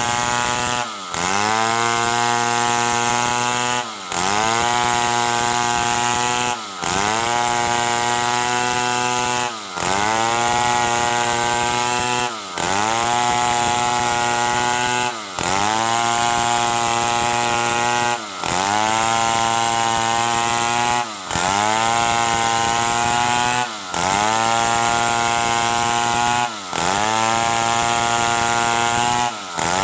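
Stihl 070 two-stroke chainsaw running at high revs while sawing wood into boards. Its engine note dips briefly and climbs back about every three seconds.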